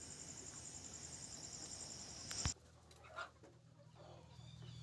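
Crickets chirping steadily in a fast pulsed trill, cut off abruptly about halfway through. Then faint clucks and small chirps from free-range country chickens.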